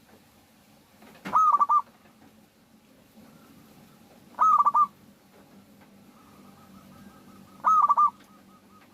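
Zebra dove (perkutut) song: three short calls about three seconds apart, each a quick run of cooing notes. A fainter, steady run of softer cooing notes sounds behind them in the second half.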